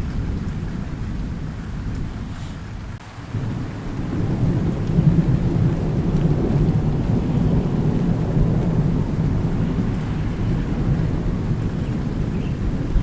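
Steady rain falling during a thunderstorm. About four seconds in, a long low roll of thunder builds and keeps rumbling over the rain.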